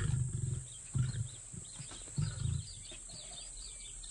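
A lion's roar tailing off in a series of deep grunts, three of them about a second apart, fading after two and a half seconds. Birds chirp and insects buzz steadily behind.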